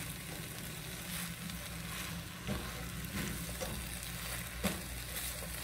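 Fried rice sizzling in a hot skillet as it is stirred, with a few short taps and scrapes of the utensil against the pan.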